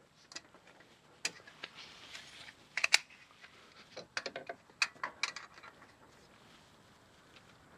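Hand tools clicking and knocking against metal while an oil filter is being worked off: scattered sharp clicks, some in quick clusters, over the first five seconds or so.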